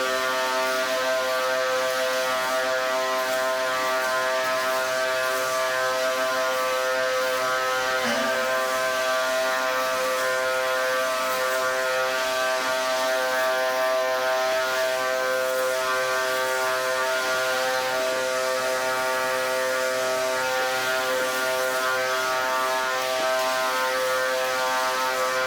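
Pressure washer running steadily: a constant droning motor tone under the hiss of the high-pressure water spray.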